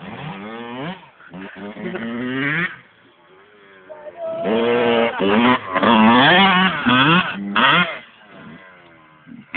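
Two-stroke motocross bike engine revving hard through the gears, the pitch climbing and dropping repeatedly, loudest in the middle stretch.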